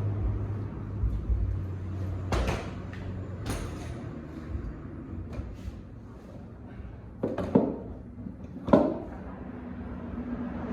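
Scattered clicks and knocks of hand work on a bike's parts, with two louder clunks near the end. A low hum fades out in the first couple of seconds.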